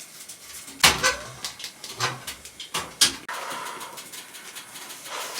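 Small pet dog being brushed and struggling: rustling of fur and handling, several sharp knocks, and a short sound from the dog about a second in.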